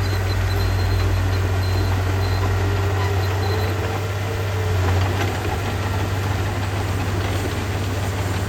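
Heavy-equipment diesel engine running steadily, its sound deep and low.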